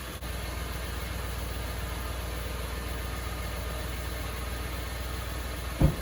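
A steady low mechanical hum, with a single brief loud thump near the end.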